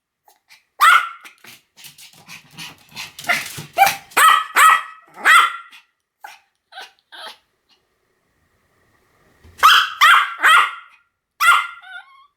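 Pomeranian barking in short, high-pitched yaps: one bark about a second in, then a quick run of barks, a pause of a few seconds, and another quick run of barks near the end.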